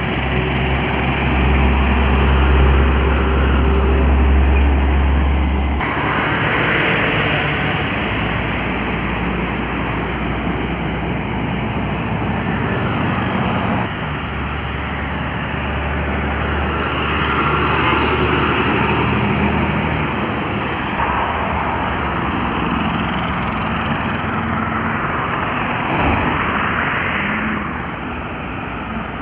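Heavy trucks running along a highway: a deep, steady engine rumble with tyre and road noise. The sound shifts abruptly a few times, the rumble strongest in the first six seconds, and there is a short sharp click near the end.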